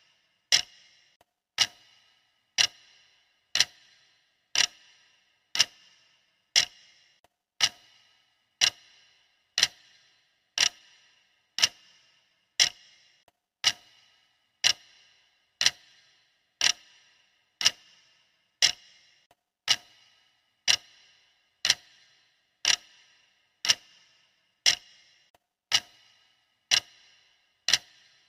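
Clock ticking steadily about once a second, each tick a sharp click with a short ring.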